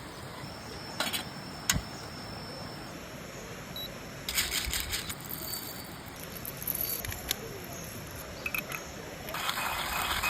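Coffee-making gear being handled: two sharp clicks, then bursts of hissing noise, the loudest starting near the end.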